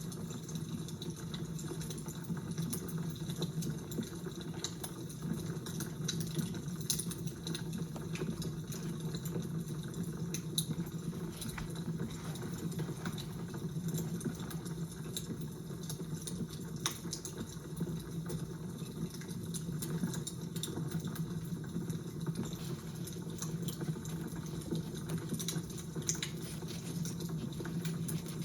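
Crackling fire: a steady low rush with many small, irregular pops and snaps scattered throughout.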